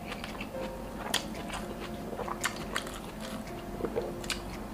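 Close-miked chewing of a salad-leaf wrap of grilled beef: irregular wet mouth clicks and crisp crunches.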